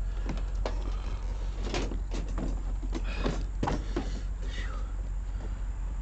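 Scattered knocks and clunks of hands working on a car's bumper parts, with a short falling squeak about four and a half seconds in.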